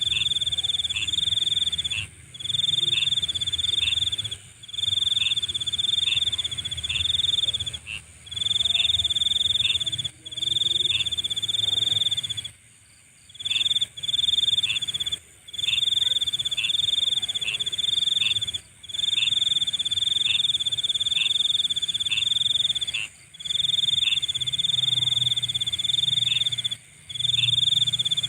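Nighttime insects, cricket-like, trilling: one loud steady high trill in stretches of one to three seconds with brief breaks, over a fainter, higher insect chorus and a low hum.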